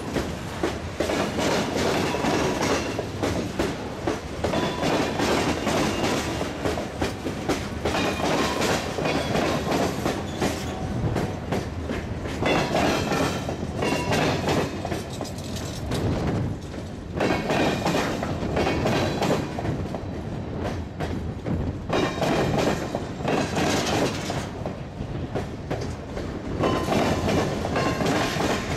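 Freight cars of a passing manifest train rolling by at close range, their wheels clicking and clattering over the rail joints in a continuous rumble that swells and dips as each car goes by.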